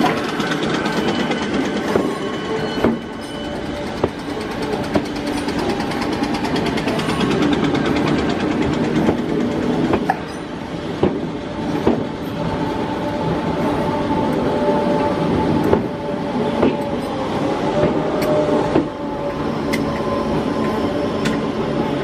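A Merseyrail Class 508 electric multiple unit moving slowly along the platform: a steady running rumble and hum, with sharp wheel clicks every second or two.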